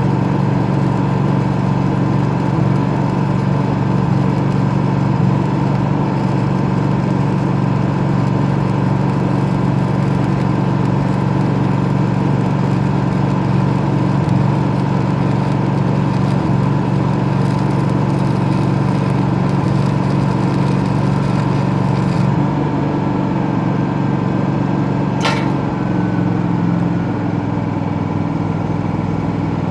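Engine-driven welding machine running steadily, with the hiss and crackle of an arc welding pipe over it; the sound changes about three-quarters of the way through, and a single sharp click comes shortly after.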